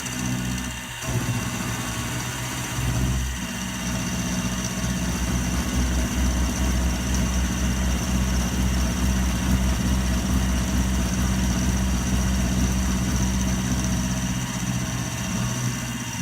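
Milling machine running steadily, a motor hum with a thin high whine over it. The low hum grows stronger about three seconds in and eases off near the end.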